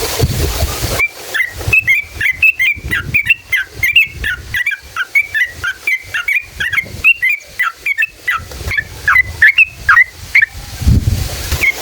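Yellow-vented bulbul (trucukan) singing a long, rapid run of short, bubbly whistled notes, several a second. The song starts about a second in and stops shortly before the end, where a burst of low rumbling noise comes in.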